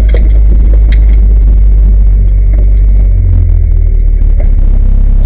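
Volvo 240 rally car's engine running at low speed, heard loud from inside the cabin as a steady low drone. About three seconds in, its note rises slightly.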